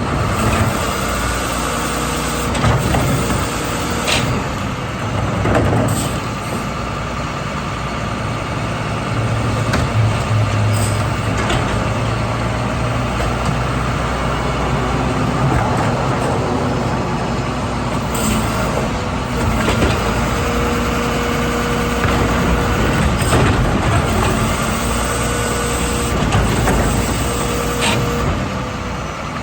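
Garbage truck engine running steadily, with several sharp knocks and clanks scattered through.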